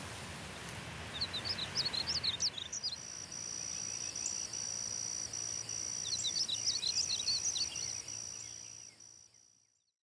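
Small birds chirping in quick clusters of short notes, over a soft outdoor hiss, with a steady high-pitched trill setting in about three seconds in; everything fades out near the end.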